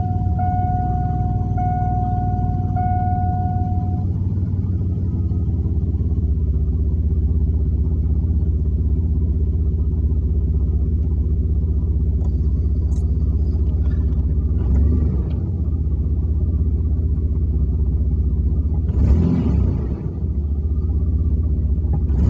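4.3-litre V6 engine idling steadily during a fuel pressure test, heard from inside the cab. A warning chime rings about once a second and stops about four seconds in. The engine sound swells briefly twice, near the middle and near the end.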